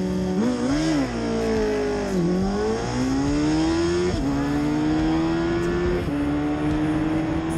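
Pickup truck's V8-style exhaust through a homemade axle-dump catback with a 3.5-inch pipe: a couple of quick revs, then accelerating, the pitch climbing and dropping at two upshifts about two seconds apart.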